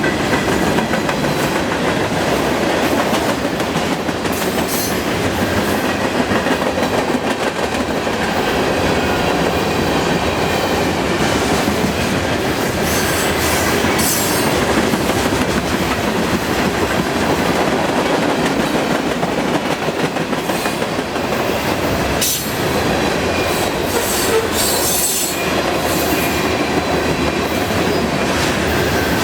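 A long freight train's cars rolling past at about 26 mph, with steady wheel-on-rail clatter and a few brief high wheel squeals, most of them in the last third.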